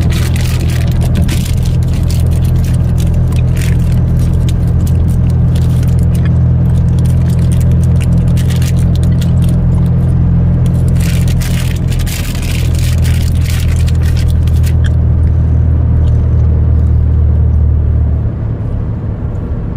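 Steady low road-and-engine rumble inside a moving truck's cab, dropping in level near the end. Scattered light clicks and rustles sit on top of it.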